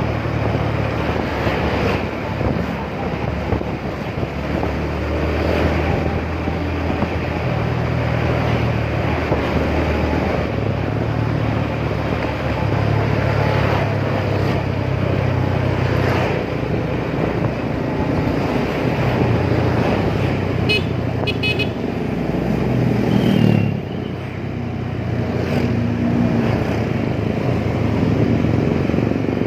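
Motorcycle engine running while riding, its note stepping up and down with the throttle, over steady wind and road noise. A quick run of short high beeps and then a brief high tone sound about two-thirds of the way through.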